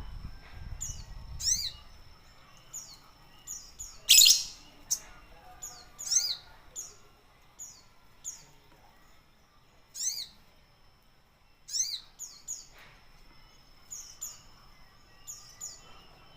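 A sogon songbird calling over and over with short, high, sweeping chirps at irregular intervals. About four seconds in comes a brief loud rush of noise, louder than the chirps.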